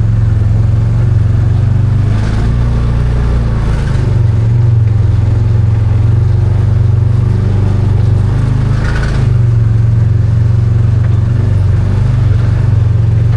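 Arctic Cat Wildcat 1000 side-by-side's V-twin engine running under load, its pitch rising and falling as the throttle changes, with a few short clattering knocks from the machine over rough trail.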